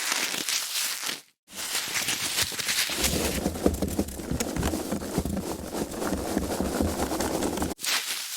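Foam packaging being handled, rubbed and squeezed with dense crackling and creaking, in separate takes broken by brief silences about a second and a half in and near the end. From about three seconds in the handling gets heavier, with a deeper rubbing under the crackle.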